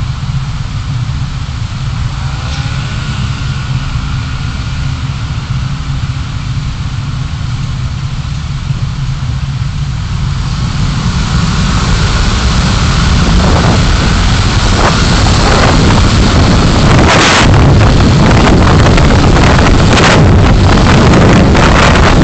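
Car driving, heard through a dashcam microphone: a steady low rumble of engine and road, with wind and tyre noise building from about halfway in and staying loud, and crackles of wind on the microphone near the end.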